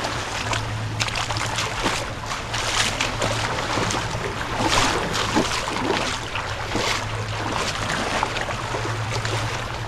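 Sea water lapping and splashing in small irregular spurts at the shore, with a steady low hum underneath.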